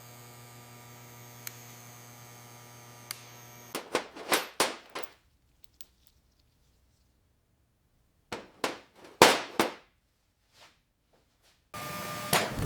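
A steady electrical hum with a couple of faint clicks, which cuts off suddenly. Then come two quick clusters of about five sharp knocks each, separated by silence. Near the end a noisy background starts, with one more knock.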